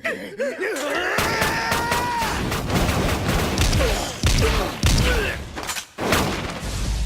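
Volley of rapid gunshots from several guns firing together, with a held yell near the start.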